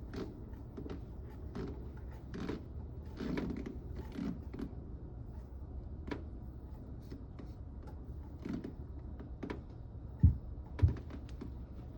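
Light clicks and clatter of a metal impeller puller being handled and reset on a stuck seawater-pump impeller, with two louder low knocks about ten seconds in, over a steady low hum.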